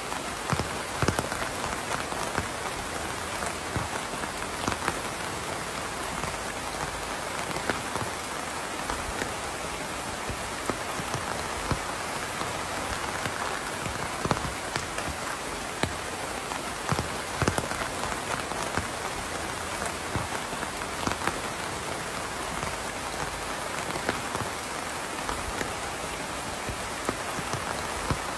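Steady rain falling, with many separate drops striking a surface in an irregular patter over the even hiss of the rainfall.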